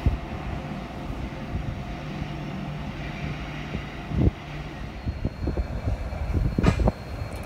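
Coal train approaching, its locomotives giving a low steady rumble and hum, with wind buffeting the phone microphone and a brief sharp noise near the end.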